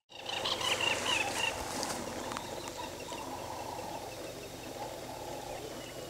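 Birds calling in the bush: a quick cluster of short, high chirping calls in the first second and a half, then fewer calls over a steady background din of wildlife.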